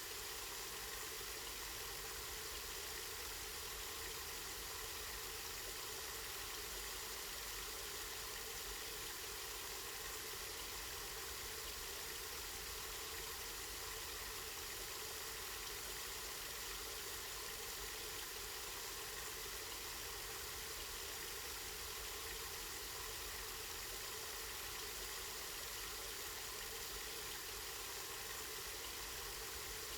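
Spring water running and splashing in a constant, even rush.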